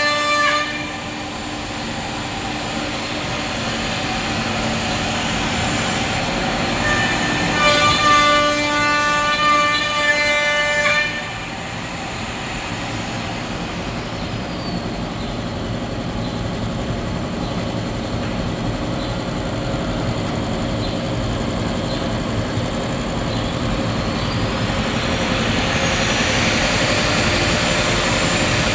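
CNC router cutting kitchen cabinet door panels, running with a steady machine noise throughout; a loud, high pitched whine comes in at the very start and again from about seven to eleven seconds in.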